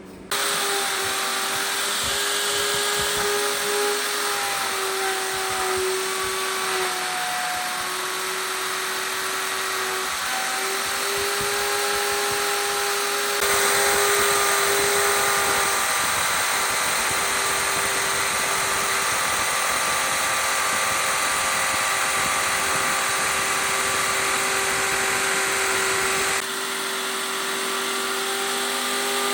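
Hand-held electric power tool running continuously with a steady motor whine over a loud hiss, its pitch sagging briefly a few times as it is pressed into the work. The sound changes abruptly twice, about halfway through and near the end.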